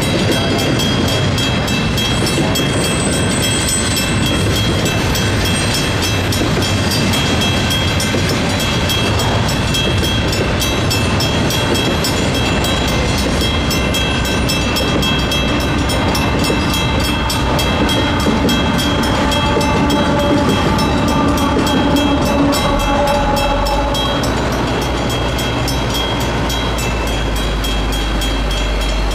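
Railroad crossing's mechanical bell ringing rapidly and steadily over the rumble and clatter of a Union Pacific double-stack intermodal freight train passing. Near the end, the train's rear distributed-power diesel locomotives go by with a deeper, louder engine rumble.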